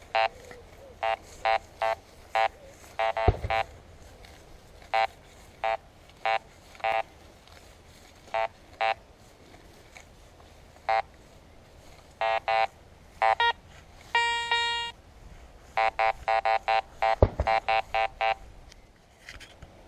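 Garrett Ace 200i metal detector beeping from its speaker as the coil sweeps the ground in zero-discrimination mode: many short beeps in quick clusters, the iron signals of an iron-heavy site. One longer, steadier tone comes about fourteen seconds in, and there are two dull thumps, near the start and near the end.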